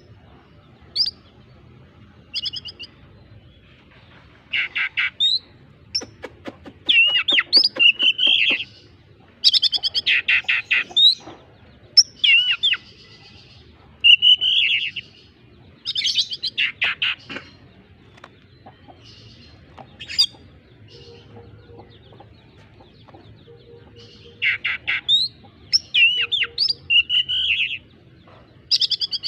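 Oriental magpie-robin singing in bursts of rapid chattering notes mixed with short whistled slurs, separated by brief pauses. Its song carries mimicked squirrel calls.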